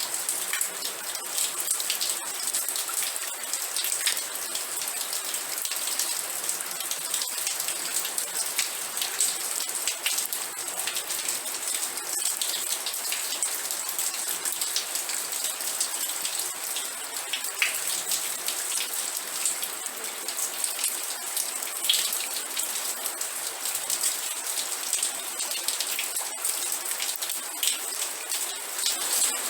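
Steady rain falling, with a dense hiss and many individual drops striking a surface as short sharp ticks.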